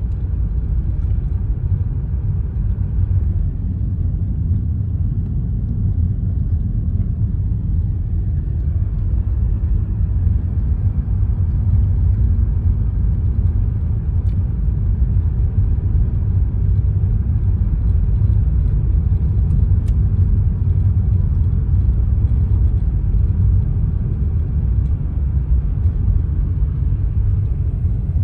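Car in motion: a steady low rumble of engine and road noise, heard from inside the car.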